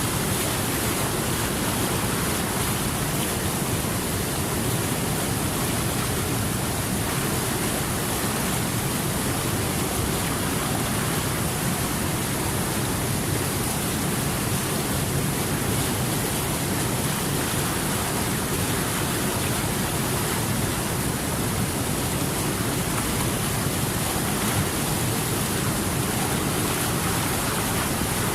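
Steady rushing water, an even unbroken noise with no splashes or changes.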